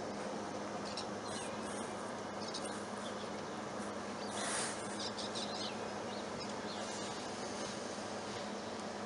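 Outdoor background with a steady low hum and scattered short, high chirps of small birds. A brief rushing noise about halfway through.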